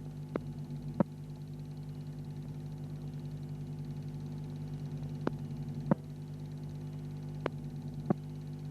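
Steady low hum and hiss of an old film soundtrack with no programme sound, pulsing evenly. Three pairs of sharp clicks come about half a second apart each: near the start, just past the middle, and near the end.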